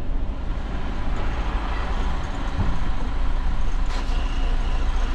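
Tractor-trailer's diesel engine running, heard from inside the cab as a steady low rumble, with a hiss swelling in the middle and a faint high tone near the end.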